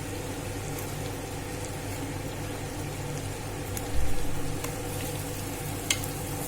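Onions frying in oil and ghee in a pot, a steady sizzle, with a dull thump about four seconds in.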